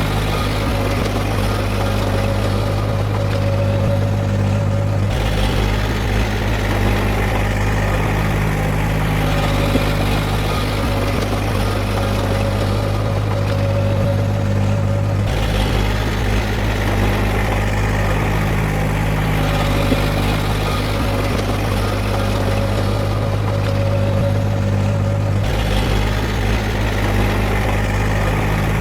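Heavy diesel engine of earthmoving machinery running steadily, with its tone shifting abruptly three times.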